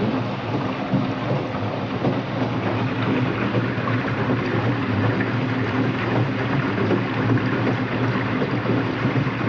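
Washing machine running empty on a rinse-and-spin cycle: a steady hum with a grinding noise, which the owner takes for bad motor bearings.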